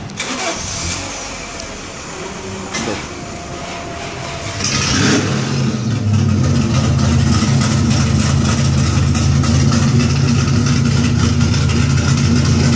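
Chevrolet El Camino engine starting about five seconds in with a short burst of cranking, then settling into a steady, low-pitched idle rumble.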